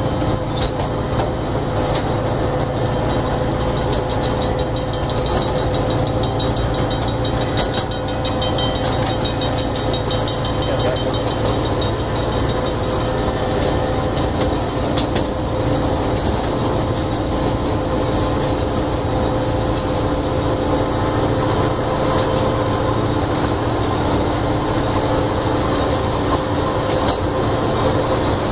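Miniature ride-on park train running steadily, heard from aboard: a continuous low rumble of wheels on track with a steady hum and scattered clicks.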